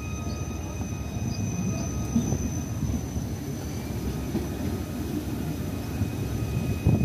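Train running, a steady low rumble with faint steady high-pitched tones above it.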